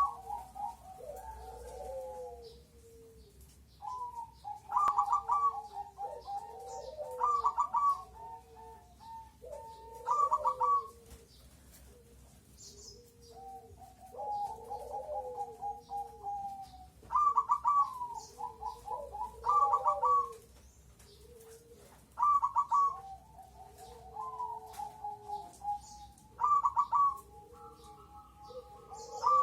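Crossbred perkutut (zebra dove) cooing: repeated phrases of quick stuttering notes running into longer coos, a new phrase every two to three seconds.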